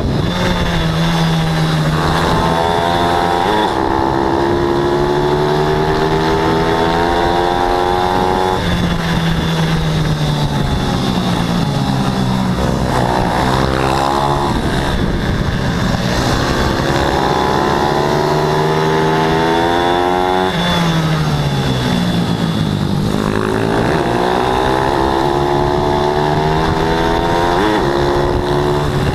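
Single-cylinder pit bike engine racing at high revs, its pitch climbing slowly for several seconds along the straights, then dropping off sharply, about three times.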